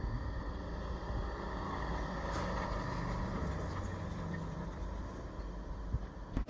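Engine running steadily under a dense rumble of wind and motion noise, swelling slightly a couple of seconds in, with a few sharp clicks near the end.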